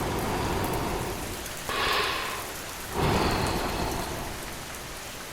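Steady rainfall, swelling louder twice: about two seconds in and again about three seconds in.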